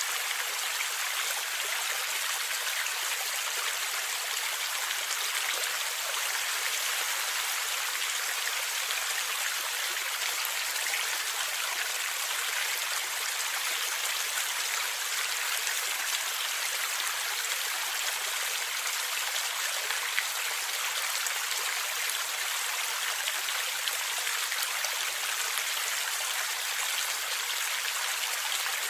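Stream water flowing and gurgling steadily, a continuous even rush with little deep rumble.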